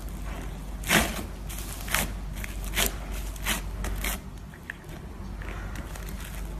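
Slime being squeezed and pressed by hand, giving sharp crackling pops about once a second for the first four seconds, then quieter.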